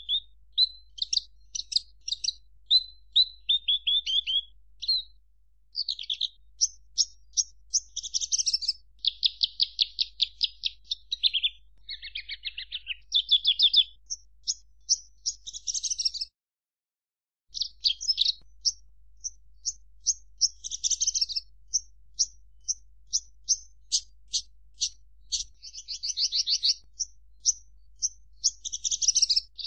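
Javan bush lark (branjangan) singing a fast, varied song of rapid repeated chirps, trills and buzzy phrases, with a short break a little past halfway.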